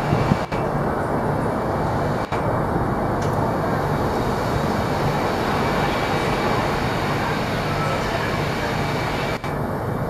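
Double-deck regional push-pull train rolling slowly into the station: a steady rumble of wheels on rail with a low hum from the train.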